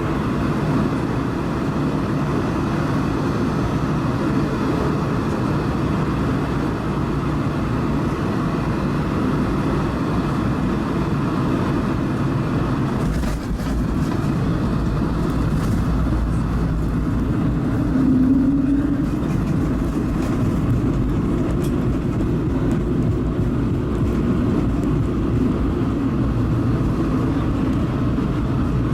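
Steady rumble and rush of engine and airflow noise inside the cabin of an Airbus A220-300 with its Pratt & Whitney PW1500G geared turbofans running, with a brief change in the noise about halfway through.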